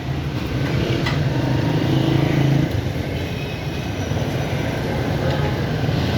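Street traffic: motor vehicle engines running and passing, a continuous low hum that swells about two seconds in.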